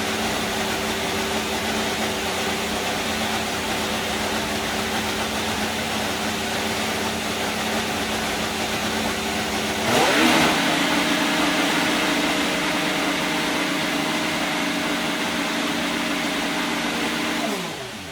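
Haas VF-24 Formula 1 car's Ferrari turbocharged V6 running at a steady, high-pitched idle. About ten seconds in it jumps quickly to a higher, steady engine speed and holds there. Near the end the engine winds down and shuts off.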